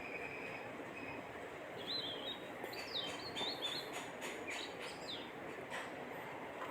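Small birds chirping in the background: several short, quick chirps that rise in pitch, bunched in the middle, over a faint steady hiss, with a few faint clicks.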